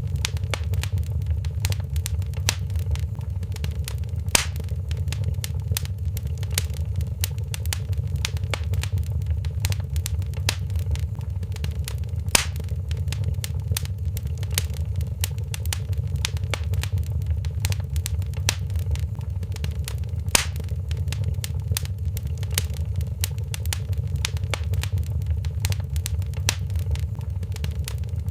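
Fireplace fire crackling: a dense, continuous stream of small snaps and pops over a steady low rumble, with three louder pops spaced several seconds apart.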